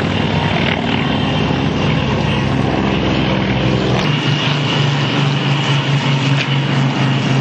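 Piston engines of WWII propeller fighters running on the ground during taxi and run-ups, a loud steady drone. About four seconds in the engine note changes as the deepest rumble drops away and a steadier tone takes over.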